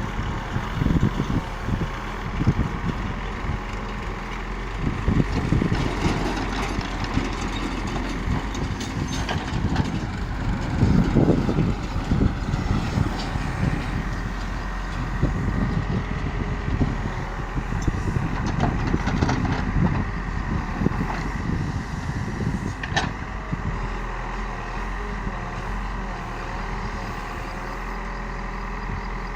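Heavy diesel machinery running, its low rumble rising and falling in bursts as the engines are worked, with a faint steady tone above it.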